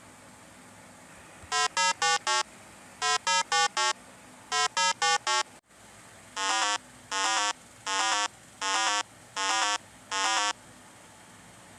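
Monkey calls: three quick runs of four short hoots, then, after a sudden break, six longer calls a little more than one a second.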